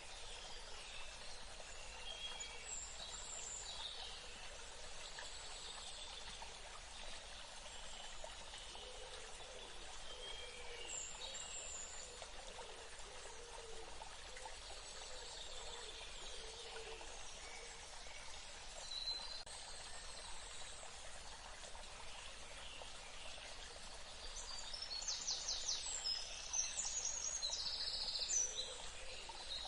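Outdoor nature ambience: a steady hiss like running water, with wild birds chirping here and there and a louder burst of rapid repeated bird calls near the end.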